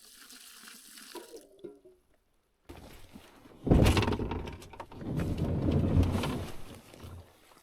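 Water poured out in heavy gushes, one about four seconds in and a longer one a second later, most likely to douse the campfire pit and make sure it is out before leaving the site.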